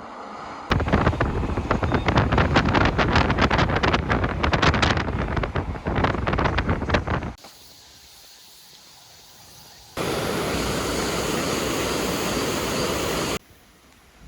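Rushing mountain-stream water with wind buffeting the microphone, in short clips that cut in and out abruptly: a rough, crackly stretch, a pause, then a steadier rush near the end.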